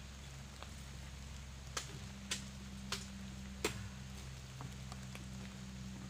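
Light drizzle, with a few sharp drops ticking close by about two to four seconds in, over the steady low hum of the parked lorry's engine idling.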